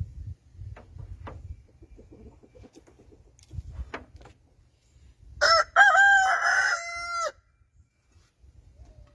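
A rooster crows once, a single call of about two seconds starting a little past halfway, with a few faint knocks before it.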